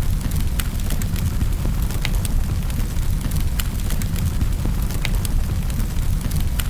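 Wood fire crackling in a fireplace: a steady low rumble of the flames with irregular sharp pops and snaps, several a second.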